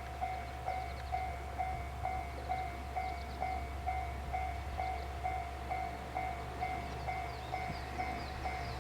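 Railway level crossing warning bell ringing in a steady, even rhythm of about two strokes a second, over a constant low rumble.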